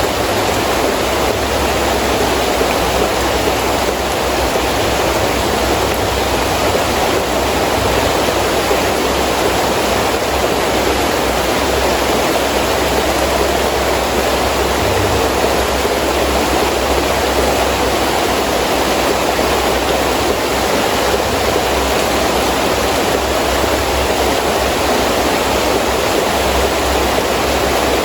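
Heavy rain pouring steadily with wind, a dense even hiss that never lets up, with a low rumble underneath.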